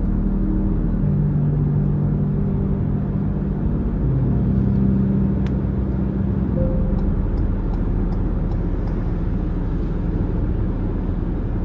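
Steady low rumble of a car driving on a wet road, mixed with a low ambient music drone whose held notes change every few seconds.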